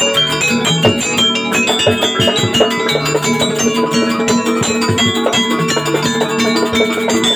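Jaranan dance music from a gamelan-style ensemble: tuned metal percussion playing a melody over drums with a quick, steady beat and a held low tone.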